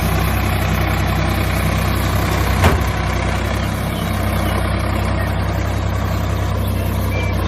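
Tractor engine idling steadily, with one sharp click a little under three seconds in.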